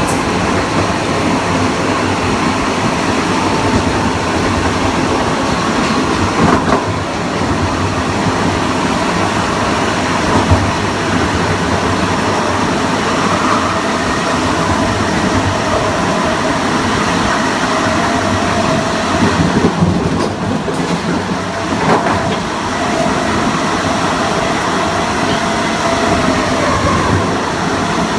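Kawasaki M9 electric multiple unit running on rails: steady wheel-and-track noise under the whine of its MELCO IGBT-VVVF inverter and AC traction motors, whose tones drift slightly in pitch. Two short knocks come from the running gear, about a quarter of the way in and again about three quarters in.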